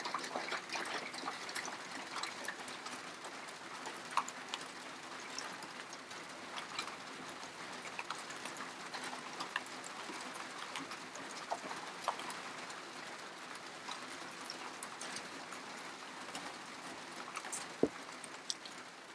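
Rain falling steadily, with irregular drips and patters ticking through a soft hiss, slowly getting quieter.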